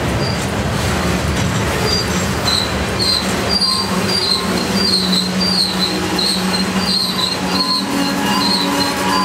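Freight train of tank cars rolling slowly past, its wheels giving short, high squeals about twice a second over a steady low hum and rumble, with an occasional knock from the cars.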